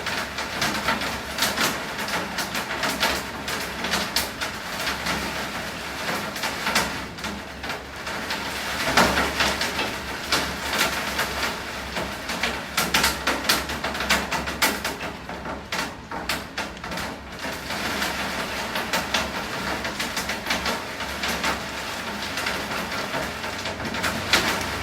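Heavy rain falling, with many irregular sharp taps and splashes of drops striking a hard surface over a steady hiss.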